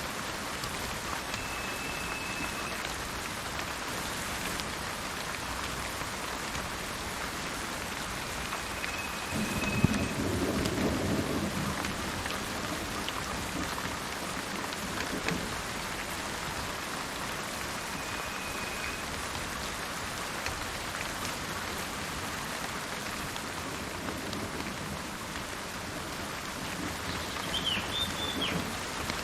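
Steady rain falling, with a roll of thunder about a third of the way in that starts with a sharp crack and rumbles on for a couple of seconds. A bird whistles three short level notes spread through the rain and gives a brief chirp near the end.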